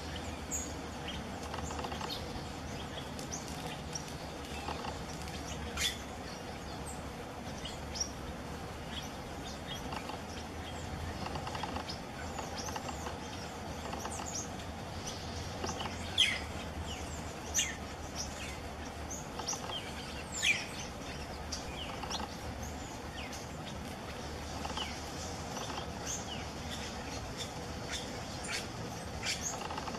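Birds chirping: scattered short, high calls, a few louder ones a little past the middle, over a steady low hum.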